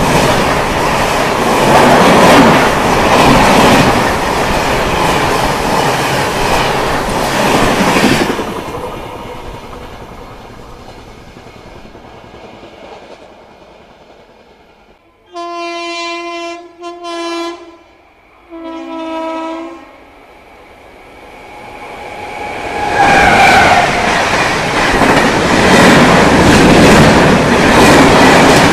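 A train rushes past at speed, its wheels clattering over the rails, then fades away. A locomotive horn then sounds twice, a steady chord, the first blast briefly broken. After that another train builds up and rushes past loudly.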